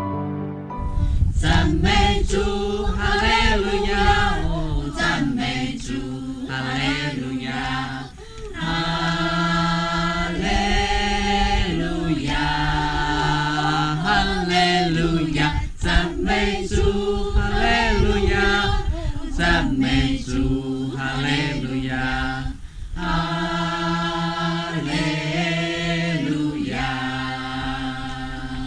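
A choir singing in long held phrases, with brief breaks about eight, sixteen and twenty-three seconds in.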